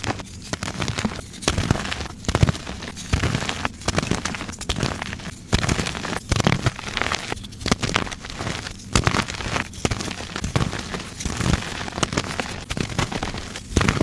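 Blocks of soft gym chalk being crushed, crumbling with dense crackling crunches that swell about once a second.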